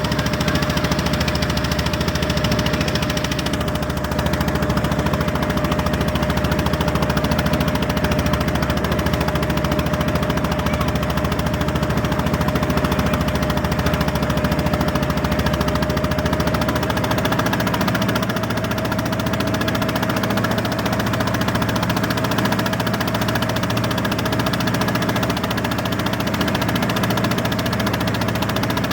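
A fishing boat's engine running steadily with a loud, continuous knocking chug. About two-thirds of the way through the deepest part of the rumble drops away while the engine keeps running.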